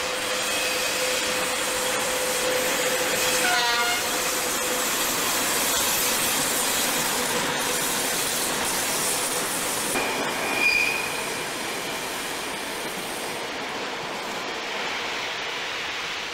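A passenger train's coaches rolling past on the track, with continuous wheel-on-rail noise. Thin wheel squeals come and go, the loudest a brief high squeal about ten and a half seconds in.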